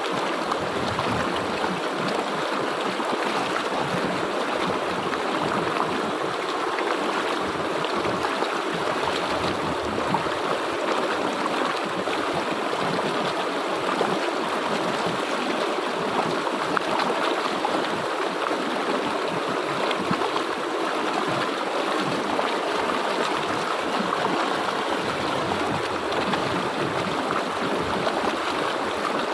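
Stream water flowing and splashing over rocks, a steady continuous rush.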